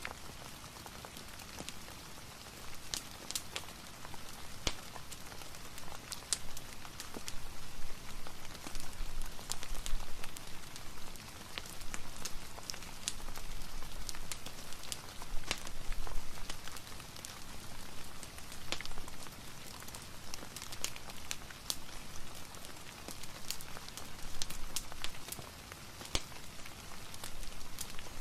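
Steady rain ambience, an even hiss with scattered sharp ticks and pops, mixed with a fireplace crackling.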